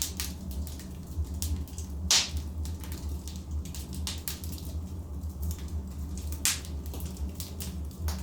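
Burning logs in a fireplace crackling, with a steady low rumble of the flames and frequent sharp pops; the loudest snaps come about two seconds in and again about six and a half seconds in.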